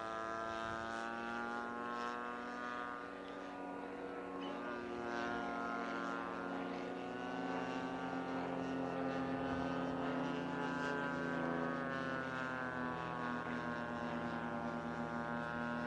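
Giant-scale radio-controlled model airplane engine running in flight, a steady buzzing drone whose pitch slowly rises and falls as the plane moves about.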